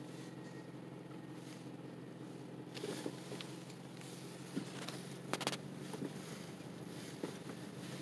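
Steady low hum of a car's engine idling, heard from inside the cabin, with a few faint clicks and knocks from the phone being handled partway through.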